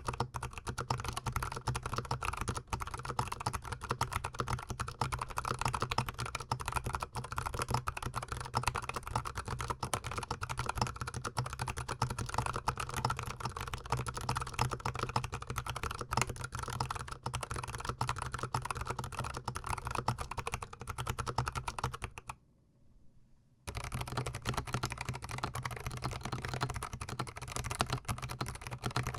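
Fast, continuous typing on a GMMK Pro mechanical keyboard, miked very close, with dense overlapping keystrokes. The typing cuts out for about a second roughly 22 seconds in, then starts again.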